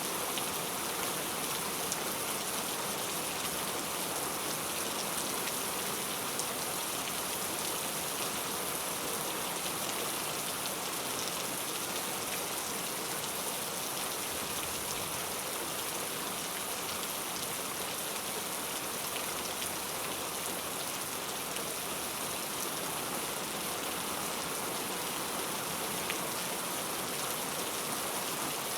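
Heavy rain falling steadily, a dense even hiss of drops on surfaces with faint individual drop ticks.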